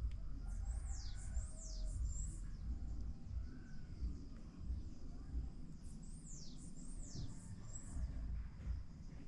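Wild bird singing: two high whistled notes that slide steeply downward, given as a pair about a second in and again about six seconds in, over a low rumble and a faint steady high tone.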